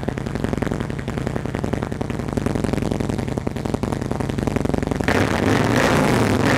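2015 Harley-Davidson Softtail Breakout's Twin Cam 103B V-twin idling steadily through a D&D Bobcat exhaust with a carbon tip. About five seconds in it is revved, growing louder.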